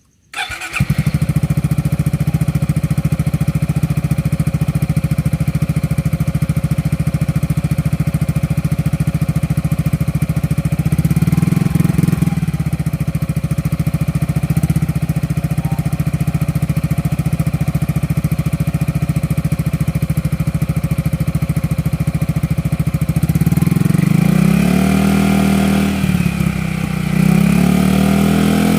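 Yamaha XMAX 250 scooter's single-cylinder four-stroke engine starting about half a second in through an aftermarket racing exhaust, then idling steadily. From about 23 seconds the throttle is blipped several times, the revs rising and falling.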